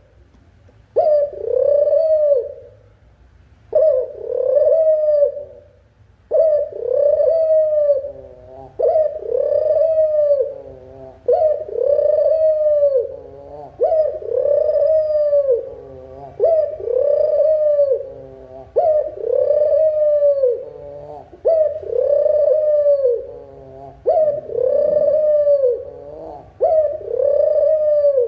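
Dove cooing: a drawn-out note that rises and then falls, repeated evenly about every two and a half seconds, eleven times.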